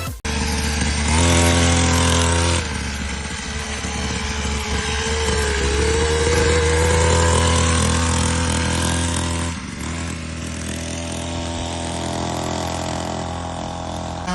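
50cc mini dirt bike engine running under throttle, its note climbing and falling several times, with a brief drop about ten seconds in.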